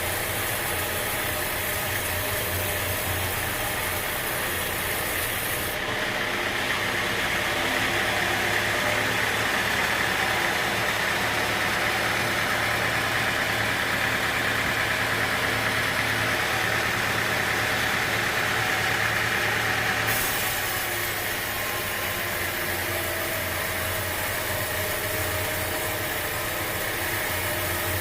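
Sawmill machinery running steadily: an engine hum under a hissing noise. The sound gets a little louder about six seconds in and drops back abruptly about twenty seconds in.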